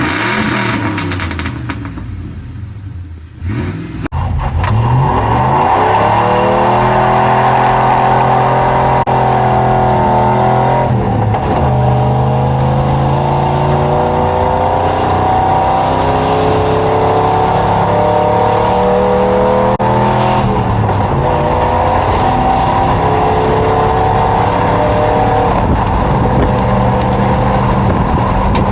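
Exhaust of a 1997 Ford F-150's 4.6L Triton V8, fitted with short equal-length headers and an aftermarket exhaust behind the stock catalytic converters. The engine climbs in pitch about four seconds in, then runs loud and high, rising and falling a little, with two brief dips in pitch.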